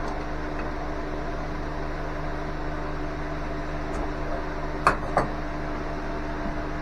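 Steady machine hum with several fixed tones over a hiss, like a running fan. Two short sharp clicks just under five seconds in, a moment apart.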